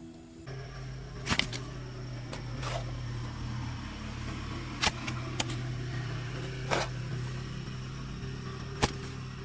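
A motor runs steadily with a low hum, with sharp knocks or clicks now and then, six in all.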